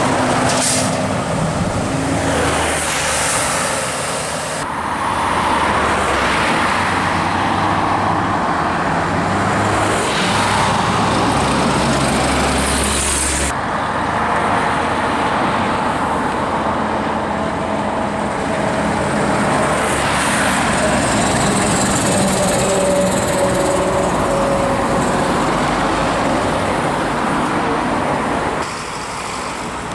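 Heavy diesel trucks driving and working, engines running under steady road noise, in several clips that change abruptly at cuts about 5, 14 and 29 seconds in.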